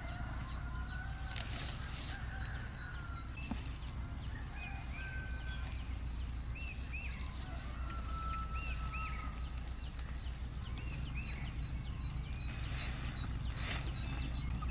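Birds calling: short whistled notes and small arched chirps, several overlapping, over a steady low rumble, with a few brief rustles.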